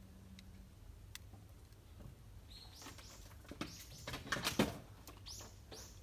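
Bird calls: a run of about five short, high chirps, each falling in pitch, in the second half, mixed with a few sharp clicks and a louder rustling burst.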